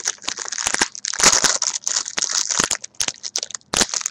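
Crinkling and crackling of a plastic-foil trading-card pack wrapper, in quick irregular bursts, as sports cards are pulled and handled.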